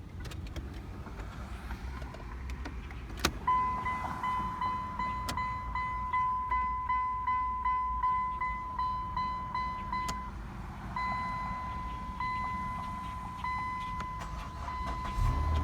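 A car's dashboard warning chime sounds as a rapid run of identical beeps, about three a second, with a short break partway through, after a sharp click. Right at the end the starter begins cranking the engine.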